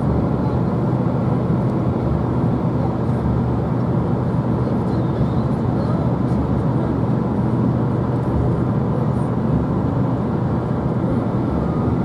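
Steady vehicle noise: a low engine hum with road rumble, even and unbroken.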